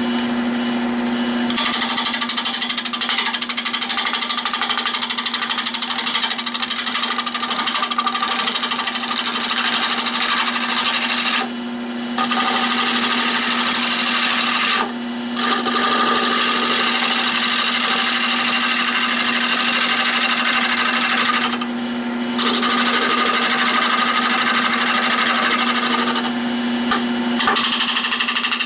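Nova 16/24 wood lathe running with a steady hum while a turning tool cuts the spinning oak bowl in a continuous hiss. The hiss starts about a second and a half in and breaks off briefly four times as the tool comes off the wood.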